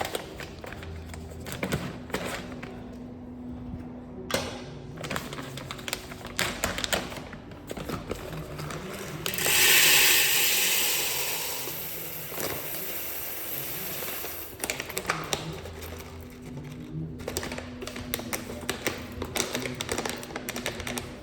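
Irregular clicking and knocking of small hard parts being handled, with a loud hissing rush about nine seconds in that lasts about five seconds.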